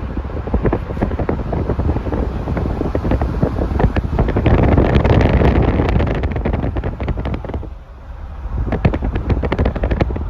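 Wind buffeting the microphone: a loud low rumble with crackling, strongest in the middle and easing briefly about eight seconds in.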